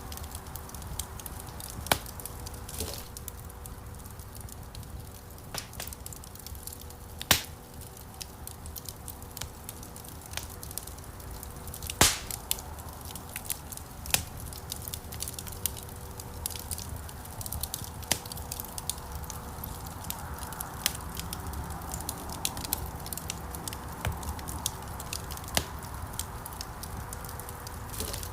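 Wood fire crackling in a fireplace: a steady low rush of flames with frequent sharp pops and snaps, a few of them much louder.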